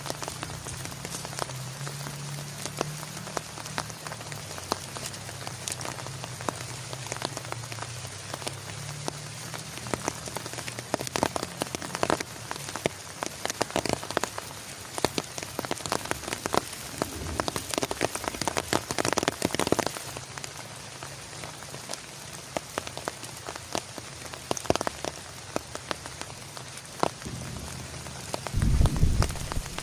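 Heavy rain falling and striking a surface, with many sharp individual drop hits standing out from the steady hiss. In the last second or so a low rumble builds: thunder starting.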